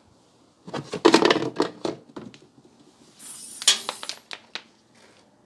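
Plastic parts of a Dyson DC33 vacuum cleaner being handled while a filter is got at. There is a quick cluster of clattering knocks about a second in, then a short scraping hiss with a click around three and a half seconds in.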